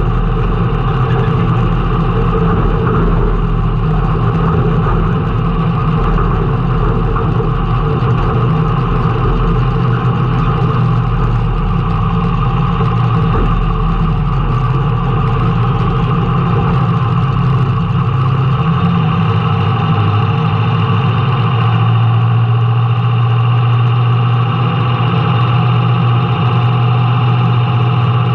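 Race car's engine running steadily, heard from inside the car; its note shifts about two-thirds of the way through as the low rumble drops away.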